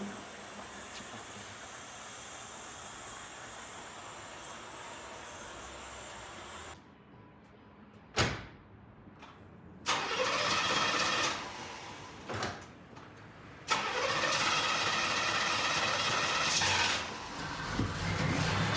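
A steady hiss, then a sharp knock, then a car engine being started: it turns over briefly and from about two-thirds of the way through runs steadily.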